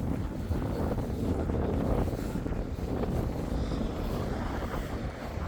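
Storm wind gusting across the microphone, a steady low rushing that swells and eases.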